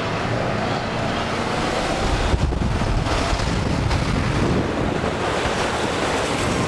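Wind rushing over the microphone, mixed with tyre and road noise from a vehicle moving at highway speed: a steady, loud rush.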